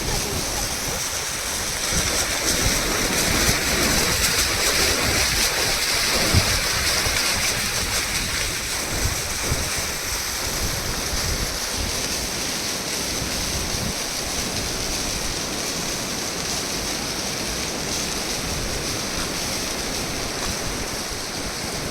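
Waterfall pouring and splashing: a steady, dense rush of water, a little louder for a few seconds near the start.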